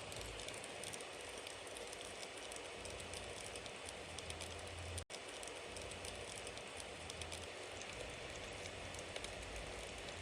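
Bonfire crackling steadily, with many small sharp pops over a low rumble. The sound cuts out completely for an instant about five seconds in.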